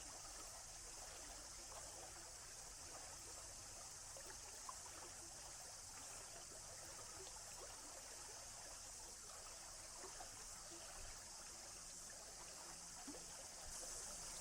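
A small stream trickling steadily, with a steady high hiss over it and scattered small drips and ticks. It grows slightly louder near the end.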